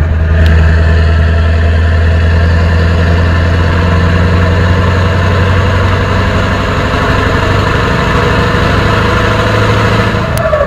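Scania 144-530's 14-litre V8 diesel engine running loud and steady at a constant speed, with a brief shift in pitch near the end.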